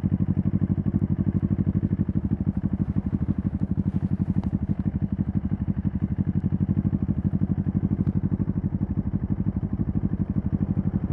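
2023 CFMoto 650NK's parallel-twin engine idling steadily, its exhaust pulses coming in an even, unchanging rhythm.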